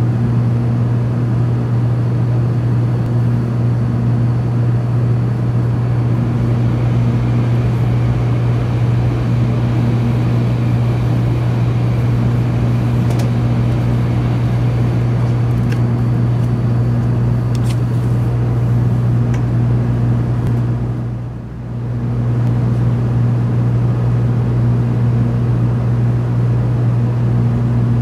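Steady low hum inside a 700 series Shinkansen car standing at a station, its on-board equipment running. Around the middle there is a faint rush as another Shinkansen passes on the far track. The hum dips briefly about two-thirds of the way through.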